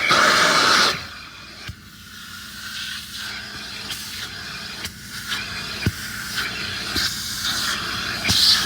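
Car wash equipment hissing loudly, cutting off about a second in, then a quieter low background with a few faint knocks.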